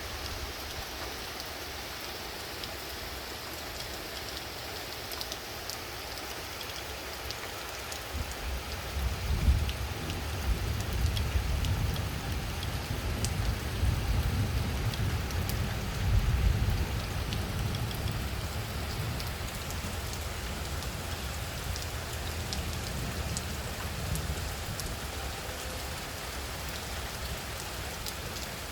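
Light rain falling steadily, with scattered ticks of single drops. From about a third of the way in, gusts of strong wind rumble low for some ten seconds, strongest twice, then ease off.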